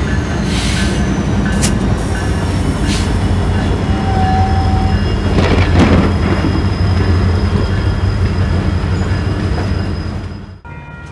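A Canadian Pacific diesel locomotive passing close by. Its engine makes a steady low rumble, with a thin high wheel squeal over it and a few sharp clanks. The sound drops away suddenly near the end.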